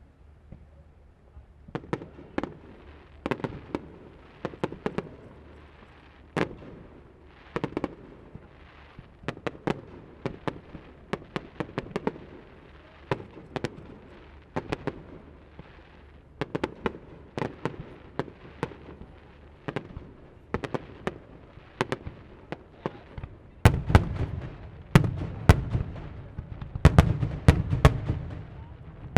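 Aerial fireworks display: shells bursting in a series of sharp bangs and crackles, in clusters starting about two seconds in. Near the end the bangs come thicker and louder, with deeper booms.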